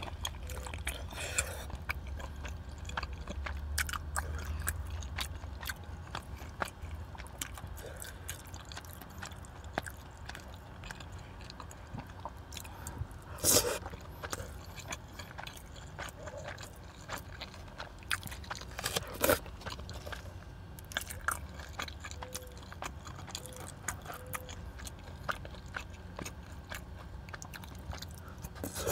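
Close-up wet chewing and mouth clicks of someone eating soft, sticky Korean rice cakes (tteokbokki) in spicy sauce, with a couple of louder sudden sounds about a third and two-thirds of the way in.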